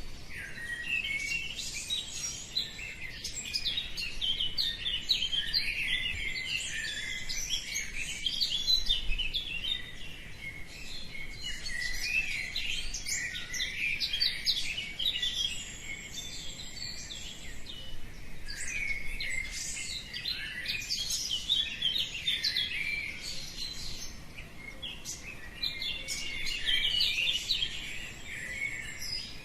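Many birds singing at once: a dense dawn chorus of overlapping quick chirps and trills, with no pause.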